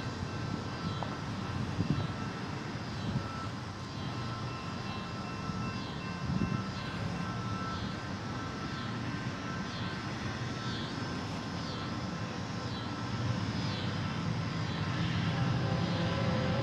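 Distant rumble of an approaching freight train's diesel locomotives, growing louder toward the end as steady engine tones come in.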